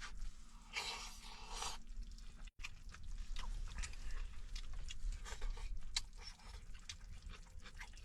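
Chewing with small scattered crunches and clicks. A short hissing rush comes about a second in.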